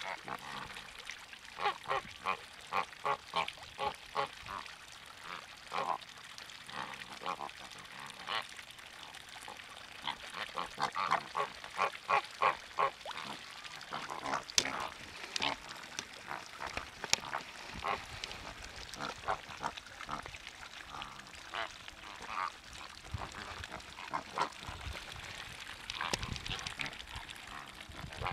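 Water birds giving short calls over and over in quick runs, over a steady background hiss.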